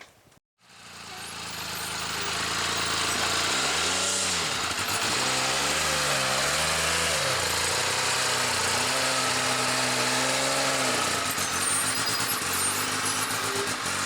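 Side-by-side UTV's engine running as it is driven into the toy hauler's garage. The sound builds over the first second or two, the revs rise and fall twice, then it holds a steady throttle.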